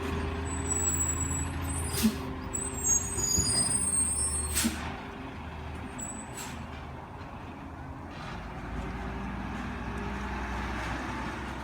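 Garbage truck's diesel engine running steadily as it pulls away. Two short sharp air-brake hisses come about two and five seconds in, with high brake squeaks between them.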